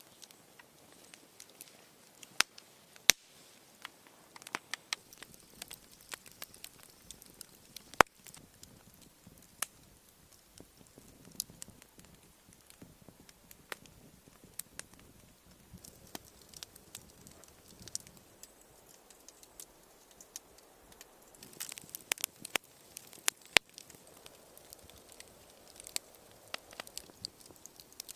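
Wood fire crackling, with irregular sharp pops, a few of them loud.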